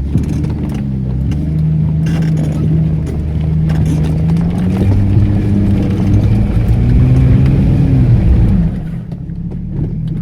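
Off-road 4x4 engine revving hard under load as the vehicle struggles up a steep muddy slope, its pitch rising and falling in several pushes. The engine eases off sharply near the end.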